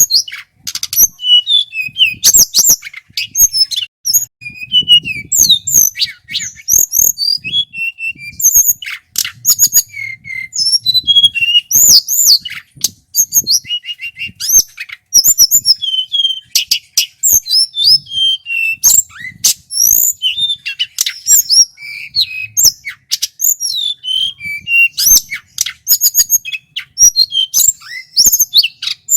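A male tledekan gunung sings loudly and without pause: a rapid, varied string of high chirps, short whistles and quick rising and falling notes.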